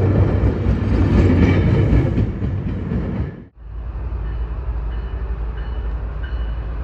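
Train rumbling and clattering over the rails. About halfway through it breaks off abruptly and gives way to a steadier, quieter low rumble from a train.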